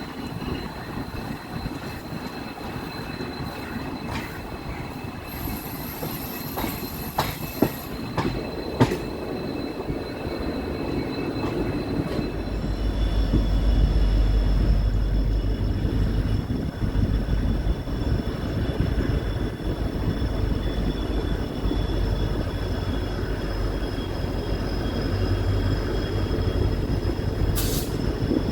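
Passenger train running on the rails with steady high-pitched wheel squeal and a few sharp clicks. About twelve seconds in, a heavy low rumble sets in and the sound grows louder, with a new set of squealing tones.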